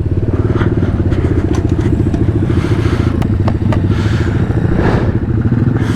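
Pit bike engine running steadily at low revs, its firing pulses even throughout, with a few sharp clicks about halfway through.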